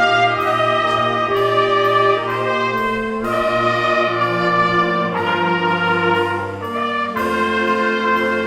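Brass ensemble playing slow, sustained chords that change every second or so over a low bass line.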